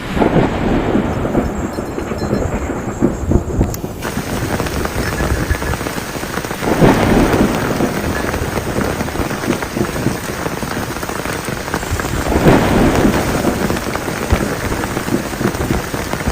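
Heavy rain falling steadily, with thunder swelling up three times: at the start, about seven seconds in, and about twelve seconds in.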